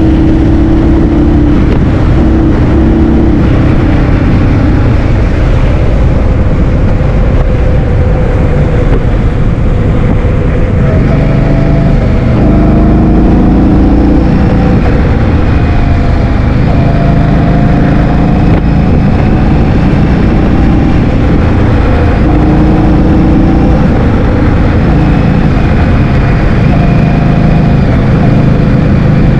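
Heavy wind buffeting the microphone of a moving scooter, with the scooter's motor tone under it, stepping up and down in pitch as speed changes.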